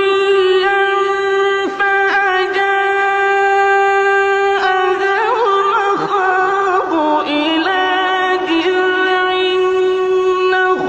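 One voice in melodic Quran recitation, holding long steady notes, with ornamented rising and falling turns of pitch in the middle.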